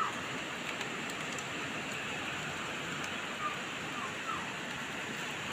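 Steady rain falling, an even hiss, with a few faint short chirps.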